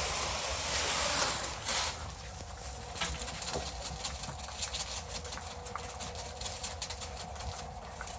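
A dry rush of sheep feed, grain and alfalfa pellets, poured from a bucket for about two seconds, then sheep feeding: many small clicks and clatters of hooves and muzzles at the feed.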